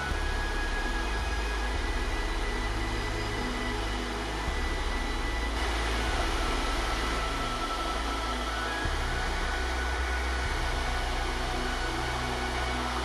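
Soft background music of sustained chords, the low notes changing about four and nine seconds in, over a steady rushing noise.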